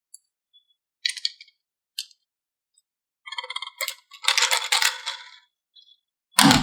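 Toy cars and plastic playset pieces being handled: a couple of separate light clicks, then a clinking, rattling stretch from about three to five and a half seconds in, and a sharper knock near the end.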